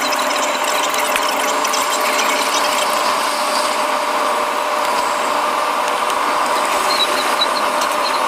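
Cabin noise of a 500 Series Shinkansen running at speed: a steady rush with a faint hum, sprinkled with small rattling clicks.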